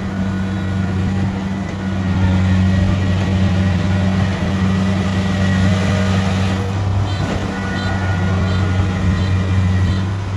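Kubota combine harvester's diesel engine running steadily with a deep, even hum as the machine travels, getting a little louder about two seconds in, with a faint rhythmic ticking in the second half.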